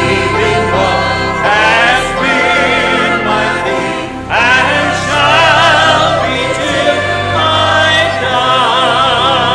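Church choir singing a gospel hymn over instrumental accompaniment, the voices held on long notes with a wide vibrato.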